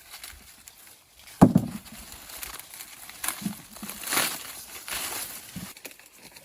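A dull thud about a second and a half in, then dry rustling and crackling of dry corn leaves and husks being handled during harvest.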